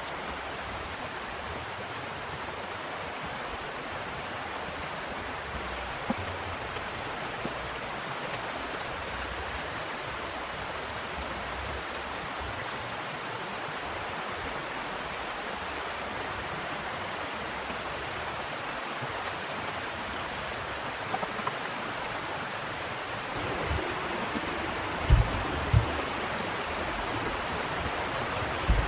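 Heavy rain falling steadily as an even hiss, with a few dull low thumps near the end.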